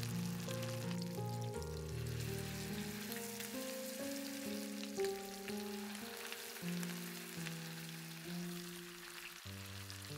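Marinated chicken thighs sizzling and crackling in hot fat in a cast-iron skillet, over background music of held notes that change every half second or so.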